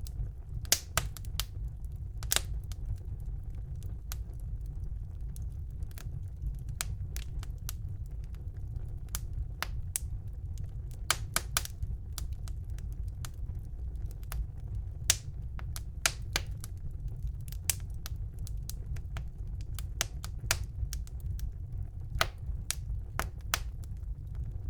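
Wood fire burning in a fireplace: a steady low rumble of the flames with irregular sharp crackles and pops from the burning logs, some much louder than others.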